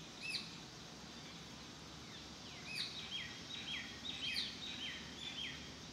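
Faint outdoor birdsong over a steady low hiss: one short high call just after the start, then from about three seconds in a quick run of short hooked chirps, about three a second.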